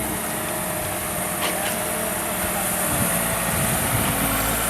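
Diesel engine of a heavy earthmoving machine (dozer or backhoe loader) running steadily, with two short clicks about a second and a half in.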